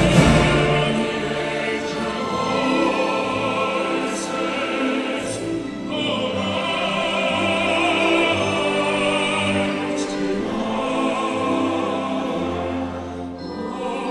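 A vocal ensemble singing, several voice parts holding chords that change every second or two.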